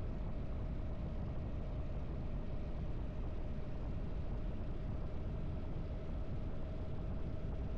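Harley-Davidson V-twin motorcycle engine running steadily at cruising speed on the road, with a constant low rumble and a faint steady whine above it.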